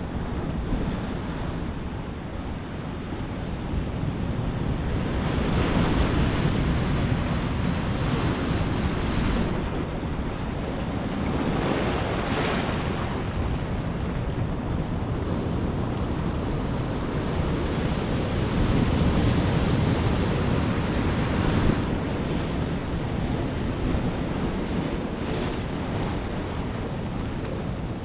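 Ocean surf washing ashore in a steady rush that swells and eases several times, with a low wind rumble on the microphone.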